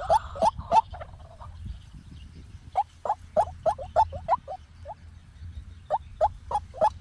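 White-breasted waterhen calling: quick strings of short, rising notes, several a second, broken by pauses of a second or two.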